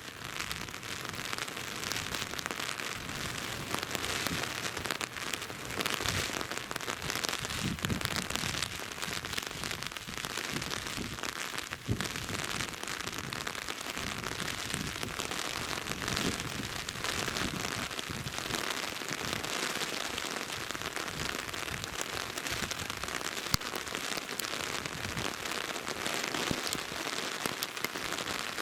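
Steady rain falling, an even hiss with many individual drops ticking close to the microphone.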